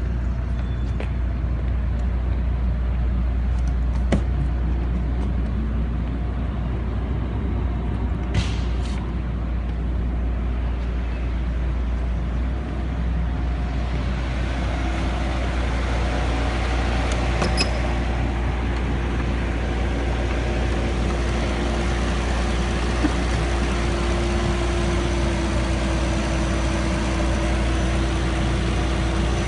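Bentley 6.0-litre twin-turbo W12 engine running steadily at idle, a constant low rumble. About halfway through, a steady hum joins it.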